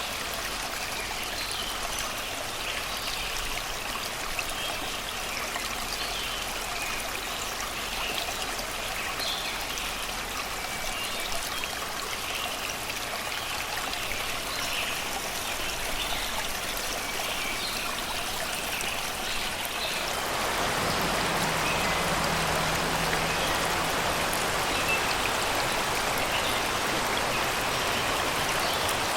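Shallow river water steadily rushing and babbling over rocks, with birds singing faintly in the forest behind it. A little after twenty seconds in, the water becomes louder and brighter.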